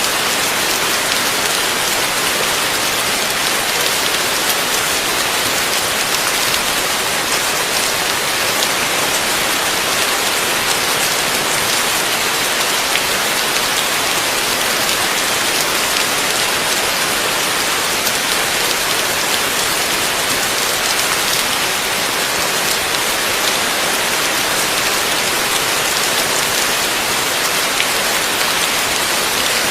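Heavy rain falling steadily, a dense even hiss of drops that neither builds nor eases.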